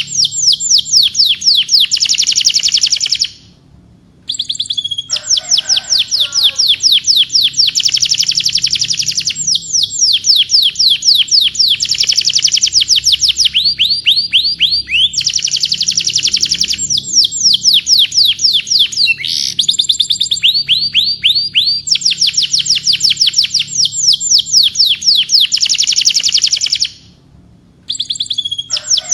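Domestic canary singing long, fast trills, each made of rapidly repeated falling notes that change speed from one phrase to the next. The song breaks off briefly about three seconds in and again near the end.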